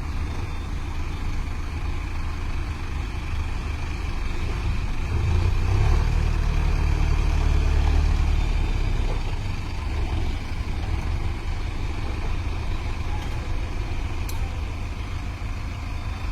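Tractor diesel engine running with a deep rumble, getting louder for a few seconds about five seconds in before settling back to a steady run.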